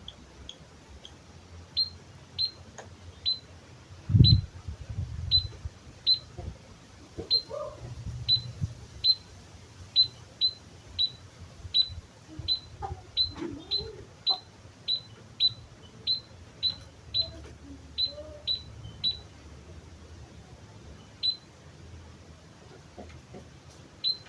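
White-headed munia (emprit kaji) calling: a long run of short, high chirps, about one to two a second, thinning to single chirps near the end. A low thump about four seconds in is the loudest sound.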